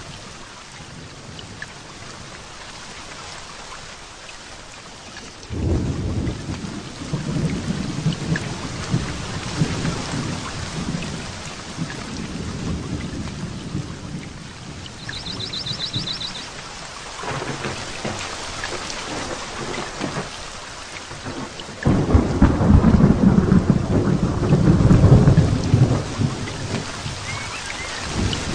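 Heavy rain falling steadily, with thunder rolling in: a deep rumble breaks in suddenly about five seconds in and rolls on, and a louder clap and rumble comes about 22 seconds in.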